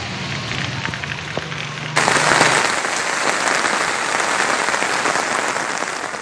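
Heavy monsoon rain pouring down in a steady hiss, with a low hum under it at first; about two seconds in it cuts suddenly to a louder, denser downpour.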